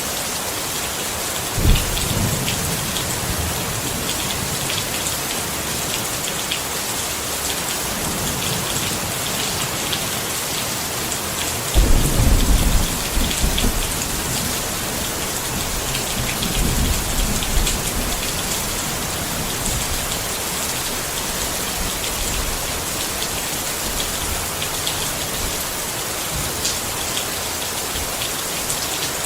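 Steady rain pattering on a tent, with thunder: a sudden low clap a couple of seconds in, a louder rumble rolling for a few seconds about twelve seconds in, and a fainter rumble a few seconds later.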